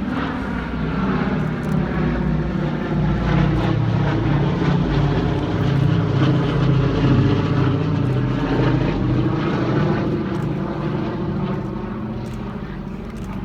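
Boeing B-17 Flying Fortress passing by, the drone of its four radial engines and propellers growing louder to a peak midway, then fading.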